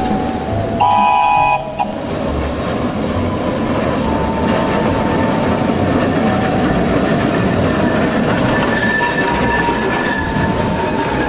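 Dubbed-on rail sound effect: a short horn toot with several pitches sounds about a second in, then a rail vehicle keeps rolling along the track with a steady rumble.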